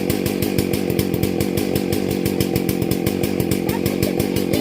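Dolmar two-stroke chainsaw running steadily while brush and branches are cleared.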